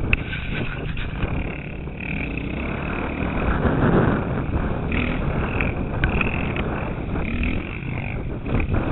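KTM 450 SX motocross bike's engine running under way on a muddy track, rising and falling with the throttle and loudest about four seconds in, with wind noise on the helmet-mounted microphone and a few sharp clicks.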